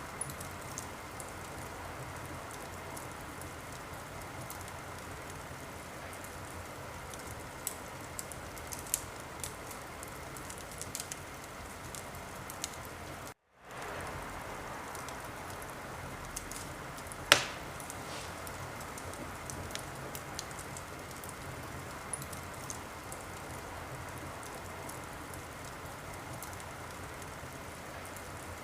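Wood fire crackling in a fireplace: a steady hiss with scattered small crackles, a brief dropout to silence about halfway through, and one loud pop a few seconds later.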